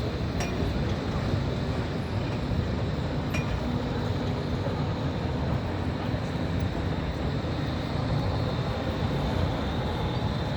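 Tram running, a steady low rumble with a faint steady tone.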